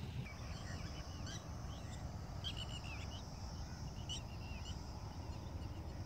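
Small birds chirping in several quick clusters of short notes, over a steady high-pitched insect drone and a low rumble.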